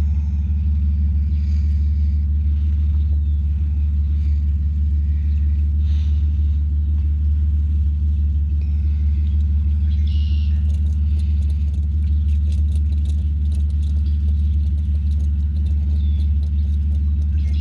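Steady, loud low rumble that does not change in level or pitch, with faint scattered ticks and rattles over it in the second half.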